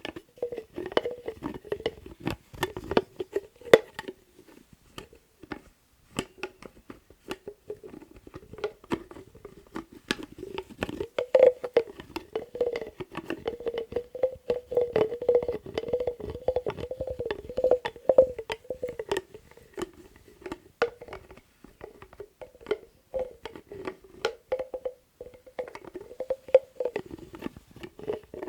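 Lids being tapped, clicked and handled close to the microphone: a dense, irregular run of quick taps and clicks over a hollow ringing tone, with a brief lull about six seconds in.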